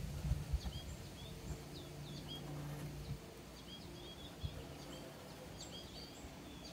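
Faint bird chirps, short falling notes repeated in little clusters, over a low steady hum, with a few soft taps.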